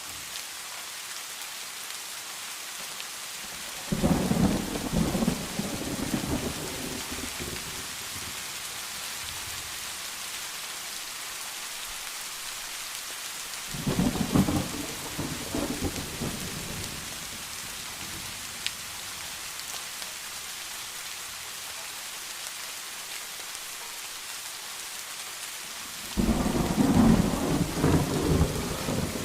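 Steady rain hiss with three rolls of thunder. Each starts suddenly and fades over a few seconds: one about four seconds in, one about fourteen seconds in, and one near the end.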